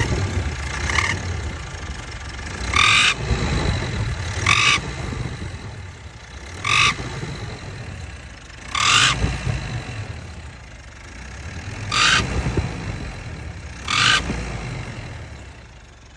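Mitsubishi L200 Triton 2.4 engine running and revved in short blips, about seven times, each blip bringing a sharp rush of higher-pitched noise over the steady rumble before it fades. The noise is from the turbocharger, which the mechanic traces to a bent turbo shaft.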